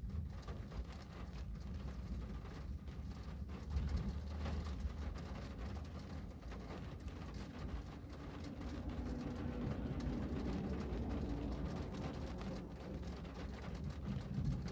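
Rain on a window: many small irregular ticks of drops over a low steady rumble.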